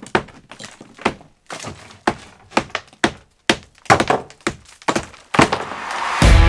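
Irregular hammer blows knocking bricks out of an old brick chimney, about two a second, with chips of brick breaking away. Loud distorted-guitar music comes in near the end.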